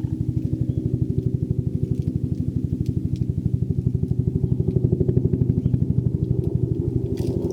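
A small engine idling with a steady, rapid low putter, getting a little louder toward the middle.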